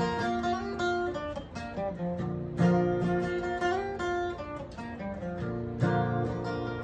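Acoustic guitar playing an instrumental passage of picked notes and strums, each note ringing on.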